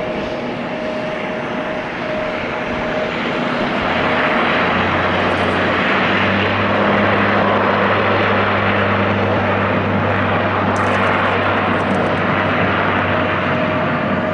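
Dash 8 turboprop airliner taking off at full power, its propellers giving a steady low drone over the engine roar. It grows louder over the first few seconds as it passes.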